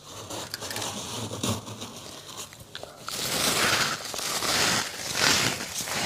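Freezer frost crackling and crunching, then about three long scraping strokes through the powdery frost in the second half.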